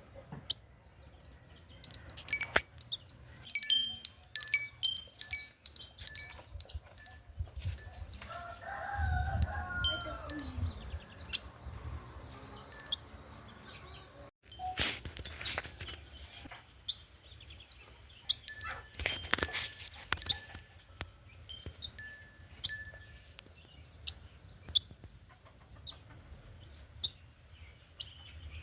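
Wind chimes tinkling on and off at a few fixed pitches, with a rooster crowing once about nine seconds in.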